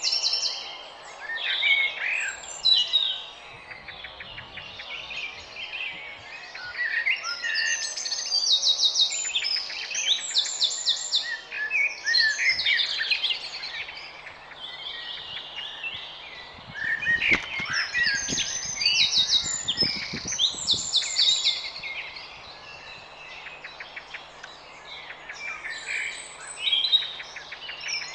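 Garden birds singing and chirping, several overlapping songs with rapid trills. A few soft low thuds come about two-thirds of the way through.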